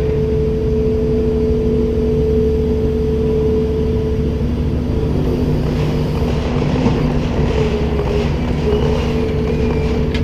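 Komatsu PC290-10 excavator's diesel engine and hydraulics running with a steady hum and whine. From about halfway in, the whine wavers and light rattling joins in.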